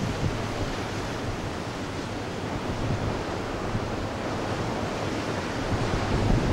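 Ocean surf breaking and washing in steadily, with wind rumbling on the microphone.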